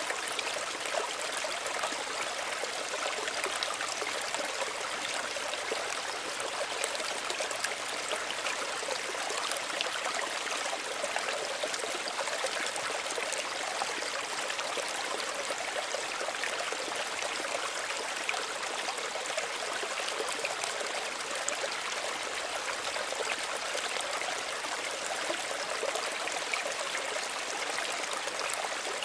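Small stream running steadily over stones, with a continuous babble and splash of water.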